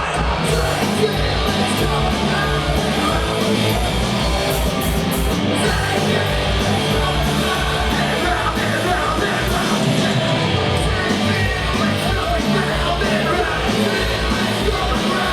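Punk band playing live at full volume: electric guitar, bass and a driving drum beat, with a singer shouting over the music.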